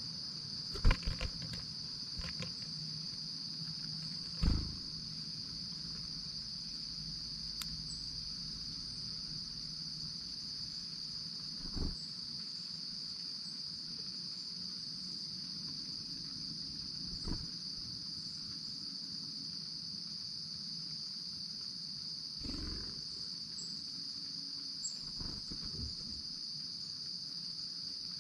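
A steady high chorus of crickets, with a few sharp knocks and thumps now and then, the loudest about a second in.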